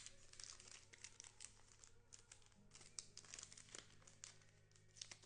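Quiet, irregular crinkling of a trading-card pack wrapper being handled and torn open, in many short crackles.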